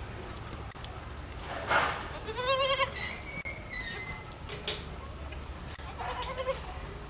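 Baby goat bleating: a quavering call about two and a half seconds in, followed by a higher, thinner note, and a shorter bleat near the end. A short, loud rush of noise comes just before the first bleat.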